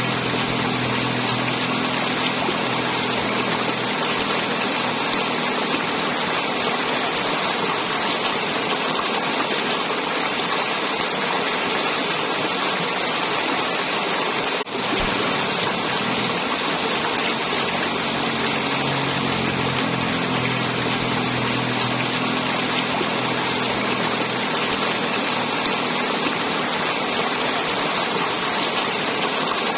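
River water flowing and gurgling steadily, a dense even rush with a brief dropout about halfway through.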